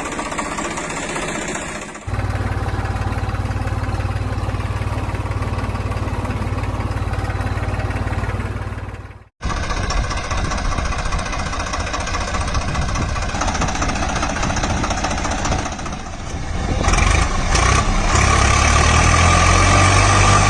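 Heavy machinery engines running at a loading site: a JCB backhoe loader and a tractor. The sound changes abruptly about two seconds in, cuts out briefly about nine seconds in, and grows louder for the last few seconds.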